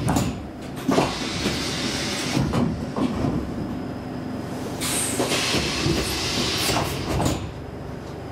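Saltsjöbanan C10/C11 electric train running, heard from inside the car: a steady rumble and hum with irregular knocks and clatter from the wheels on the track. It eases a little near the end.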